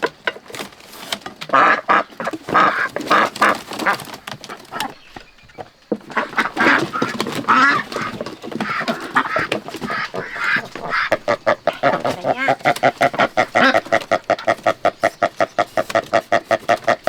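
Ducks quacking loudly in a dense, rapid stream of calls, pausing briefly about a third of the way through and then settling into a fast, regular run of quacks.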